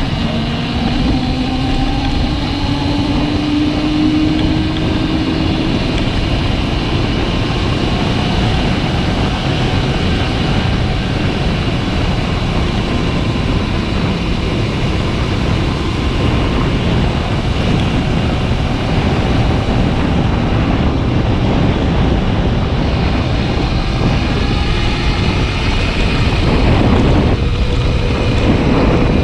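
Motorcycle being ridden, with wind rushing over the microphone. Its motor note rises in pitch over the first few seconds.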